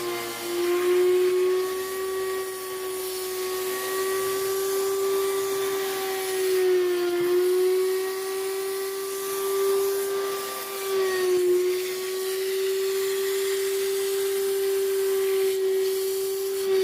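Vacuum cleaner motor running with a steady high whine, its pitch dipping briefly a few times as the load on it changes, the sound of a vacuum used for cleaning a car's interior.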